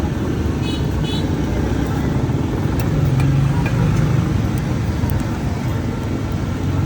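Steady roadside traffic noise, a low rumble of passing vehicles, with indistinct voices mixed in. Two brief high-pitched notes sound about a second in.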